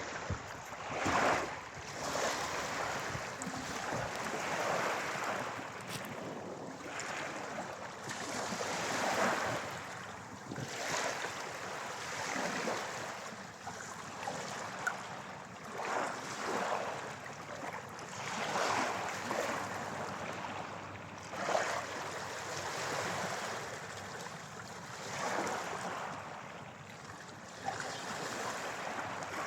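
Small sea waves breaking and washing on the shore, swelling and fading every few seconds, with a few sharp clicks.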